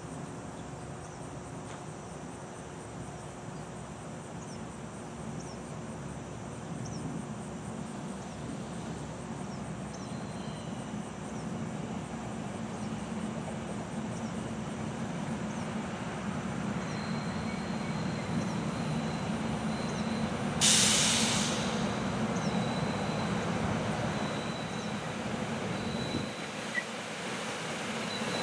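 SEPTA Silverliner IV electric multiple-unit train approaching, its rumble growing steadily louder, with a faint high whine in the second half. A short sharp hiss about three-quarters of the way through.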